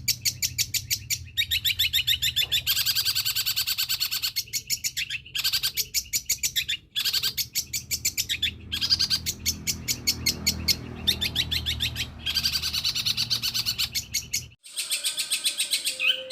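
Long-tailed shrike (cendet) singing a long run of rapid, high, repeated chirps, with bursts of quick notes broken by short pauses. Its song mixes in mimicked calls of other birds.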